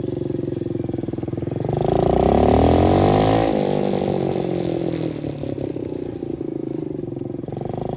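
125cc dirt bike engines running while riding. The engine note holds steady, then about two seconds in it swells to a louder, sweeping pitch for a couple of seconds before settling back.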